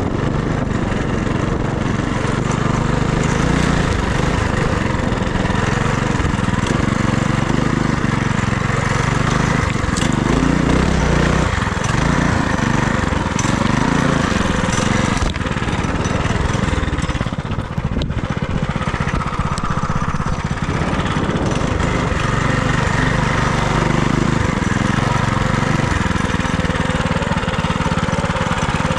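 FRP GMB100 minibike's small engine running under way as the bike is ridden, its pitch rising and falling with the throttle and dipping briefly about eighteen seconds in.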